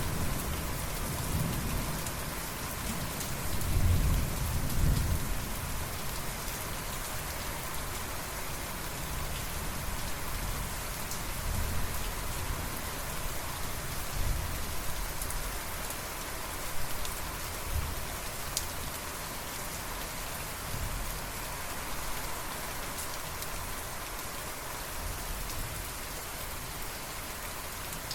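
Steady rain falling, with low rumbles of thunder that are loudest about four seconds in and return more faintly a few times later.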